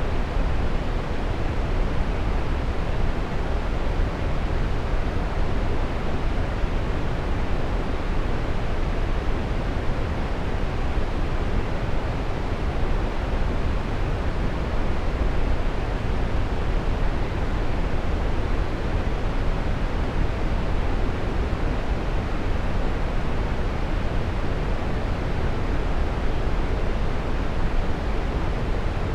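Waterfall: water pouring and splashing in a steady, even rush, strongest in the low rumble, with no breaks or changes.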